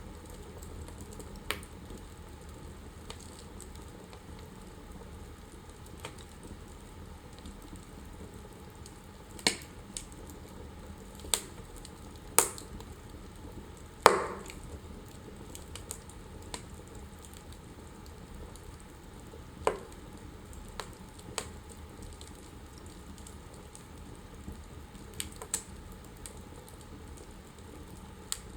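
Wood fire burning in a fireplace: a steady low hiss broken by a dozen or so sharp, scattered pops and cracks, the loudest about halfway through.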